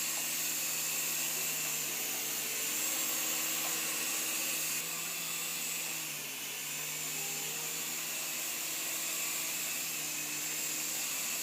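Protocol Tiger Jet mini RC helicopter hovering: the steady whirr of its small electric motors and rotor blades, dipping slightly a little past halfway as the throttle eases.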